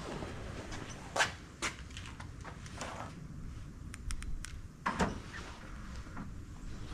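A few separate knocks and clicks, four or so spread over several seconds, with a quick run of light high ticks in the middle, over a faint low rumble.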